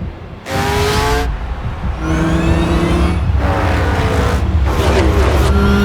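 Race car engines going past at speed over a steady low rumble, each engine's pitch falling as it passes, several in turn.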